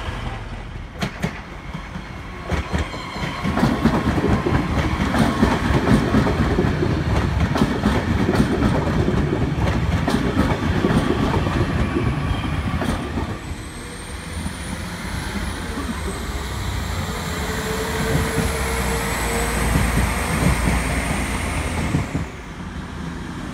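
Passenger multiple-unit trains passing over the tracks: wheels rumbling and clicking over the rail joints. Then a quieter stretch as a train runs past with a thin, high whine that rises and falls, cutting off suddenly near the end.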